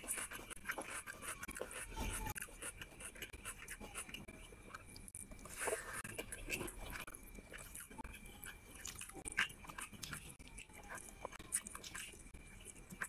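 Close-miked eating sounds: wet, irregular chewing with clicks and smacks, as a person mixes curry-soaked rice with their fingers and eats it by hand.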